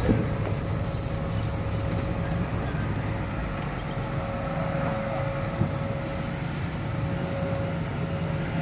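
Car engine idling steadily, with a bump right at the start.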